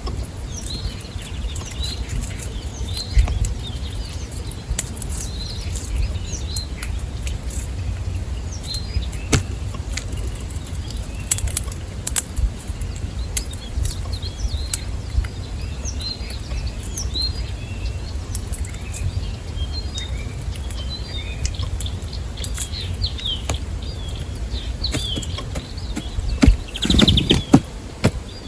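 Small birds chirping and calling in short, frequent notes, over a steady low rumble, with scattered sharp clicks. Near the end there is a louder, brief cluster of knocks and flutters.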